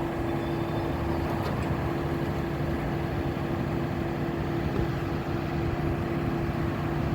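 A motor vehicle engine running steadily close by, a constant unchanging hum over road noise.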